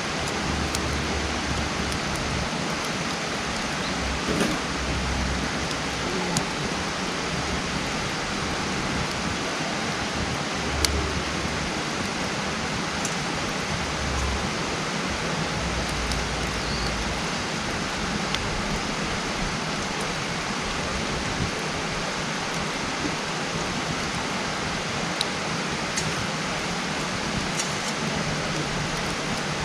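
Wood campfire burning with a steady hiss and a few sharp crackles and pops scattered through.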